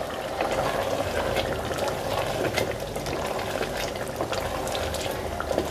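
Black chickpea masala frying in ghee in an open aluminium pressure-cooker pot, being fried down over the heat: a steady bubbling sizzle with many small scattered pops and clicks. A wooden spoon stirs through it.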